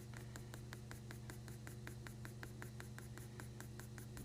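Pencil scratching on paper in rapid short strokes, about seven or eight a second, as grass is drawn in, over a low steady hum.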